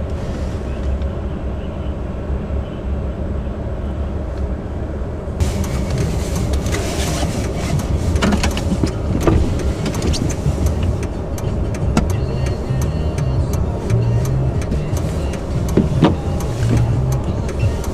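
Car driving on a snowy road, heard from inside the cabin: a steady rumble of engine and tyres. About five seconds in it turns suddenly brighter and louder, with scattered knocks and clicks.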